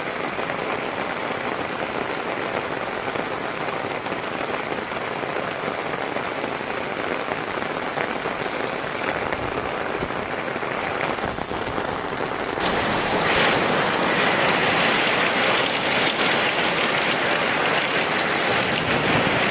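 Heavy rain falling as a dense, steady hiss, which turns abruptly louder and brighter about two-thirds of the way through.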